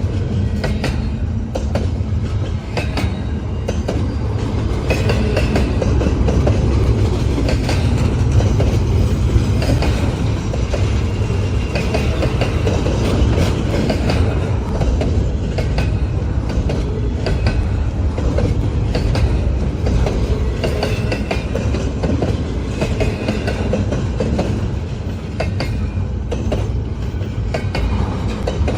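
Long intermodal freight train rolling past, wheels clicking over rail joints over a steady low rumble, with a faint squeal of wheels now and then.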